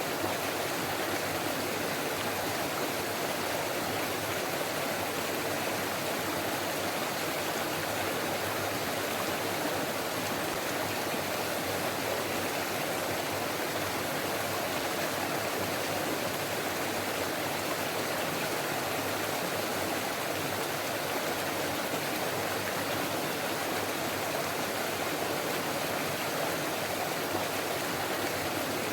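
Forest stream flowing and babbling steadily over rocks.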